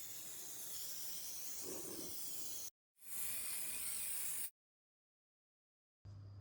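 A steady hiss of spraying air. It cuts off briefly under three seconds in, resumes, and stops for good about four and a half seconds in.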